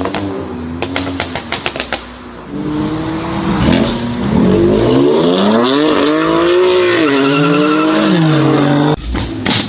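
A performance car's engine revving up and down, with a rapid string of sharp exhaust pops and bangs about a second in. Near the end the sound cuts off abruptly and more sharp pops follow.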